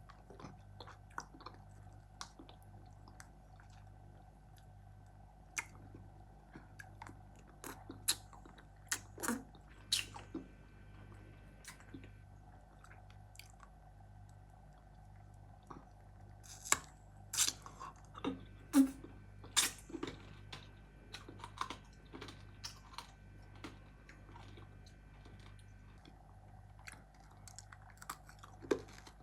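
Close-miked chewing and crunching of candy in the mouth: irregular sharp crunches and clicks, coming in two denser, louder bouts about a third and two-thirds of the way through.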